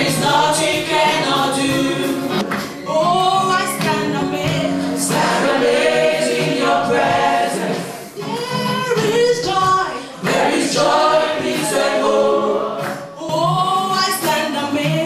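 Choir singing a gospel worship song with music behind it.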